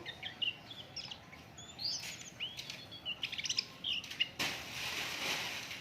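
White-eyes (pleci) chirping and twittering in short high calls, with a quick run of rapid chirps about three and a half seconds in. A burst of rustling hiss fills the last second and a half.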